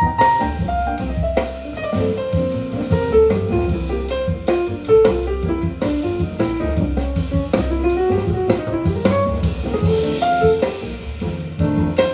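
Jazz recording of a piano, guitar, bass and drums quartet played back over hi-fi loudspeakers and picked up by a microphone in the listening room. A busy melodic line runs over walking bass and drum kit.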